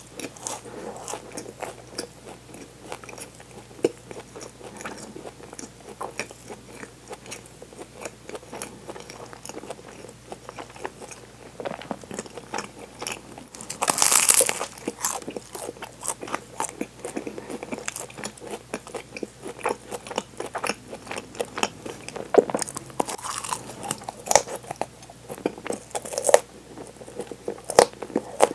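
Close-miked chewing and biting of a flaky chocolate pastry, a steady run of small crisp crackles from the crumbly layers. A loud crunchy bite comes about halfway through, and a few more sharp crunches follow near the end.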